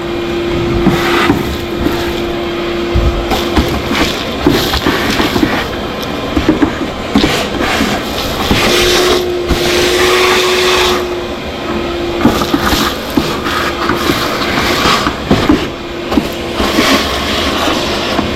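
Shop vac running, sucking leaves and debris out of the bottom of an air conditioner's outdoor unit: a steady motor whine that shifts slightly in pitch as the suction load changes, with irregular crackling and rattling as debris goes up the hose.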